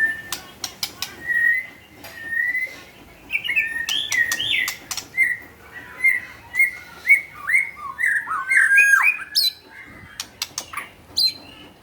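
White-rumped shama singing: a rapid run of varied whistled phrases, densest from about three to ten seconds in, interspersed with sharp clicks.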